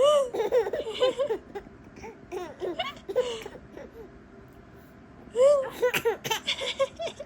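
A 7-month-old baby laughing in bursts of high, bouncing giggles. There is one run at the start, a few quieter ones in the middle, and a louder run about five and a half seconds in.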